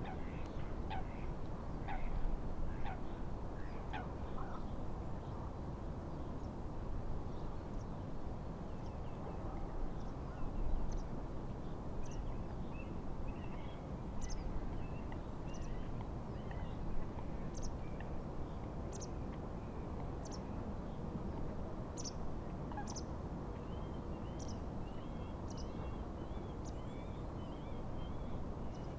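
Birds calling over a steady rush of wind and waves on a lake: a run of harsh repeated calls in the first few seconds, then scattered short, high chirps and a twittering song near the end.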